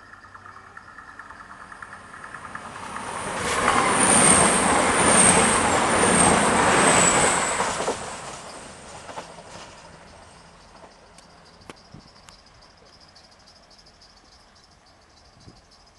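Class 220 Voyager diesel multiple unit passing at speed over a level crossing: a rush of wheels and engines swells, stays loud for about four seconds with a high ringing whine pulsing four times, then dies away. A few light clicks follow, and a faint steady high chirring of insects remains near the end.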